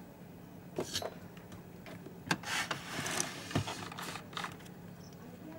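Scattered clicks, knocks and a brief scrape of hands and tools handling an opened LCD projector's plastic and metal parts, over a steady low hum.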